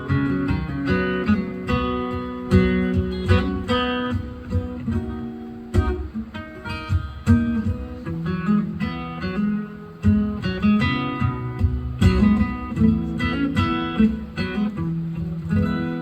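Acoustic guitar played solo, a picked and strummed introduction to a song with no singing.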